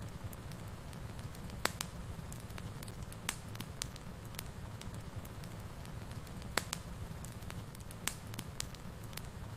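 Wood fire burning in a fireplace: a steady low rumble of flames with irregular sharp crackles and pops, a few louder snaps standing out.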